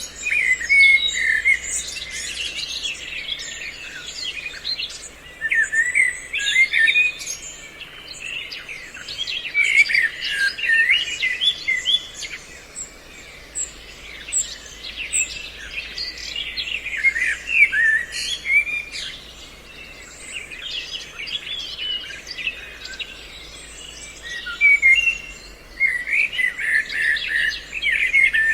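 Recorded mix of several species' bird calls, made as a lure for bird trapping: dense bursts of short chirps and whistles, with a few quieter stretches in between. A faint steady hum runs underneath.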